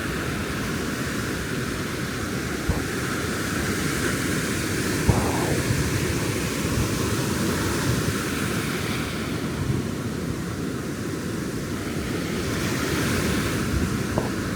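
Ocean surf washing on a sandy beach, its hiss swelling and ebbing under a steady low rumble, with a couple of soft thumps about three and five seconds in.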